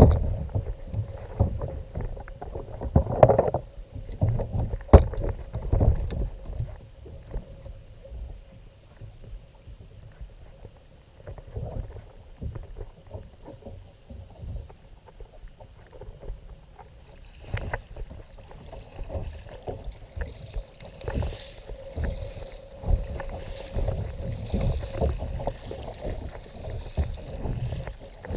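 Kayak on the water: low rumble of water and handling against the hull, with a couple of sharp knocks on the hull early on. From a little past halfway, water splashes and drips in a loose, repeating pattern.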